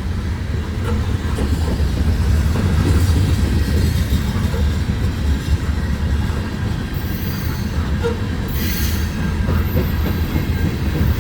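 Empty grain hopper train rolling past, a steady low rumble of freight car wheels on the rails, with brief high squeals about seven and nine seconds in.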